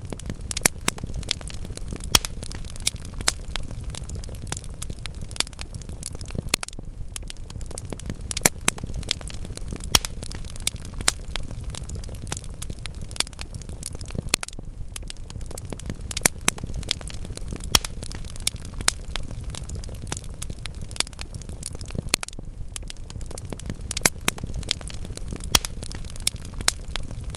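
Wood fire burning in a fireplace: logs crackling with sharp, irregular pops, a few each second, over a steady low sound of the flames.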